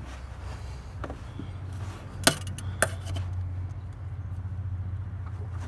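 Mercedes GL450 V8 engine running with a steady low hum; its bank one intake camshaft adjuster gear has a worn locking pin. Two sharp clicks come a little past two seconds in, about half a second apart.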